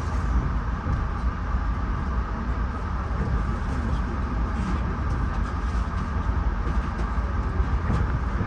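Steady low rumble and rail noise inside a moving Bombardier LRC passenger car, with a few faint clicks.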